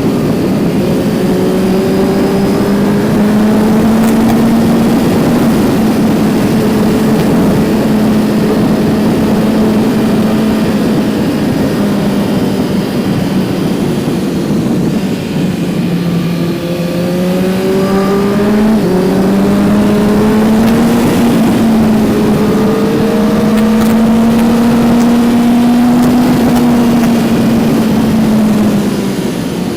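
A 2019 Kawasaki Z900's inline-four engine running under way, heard onboard with wind rush over the microphone. The revs hold fairly steady, ease off about halfway, then build again and drop back near the end.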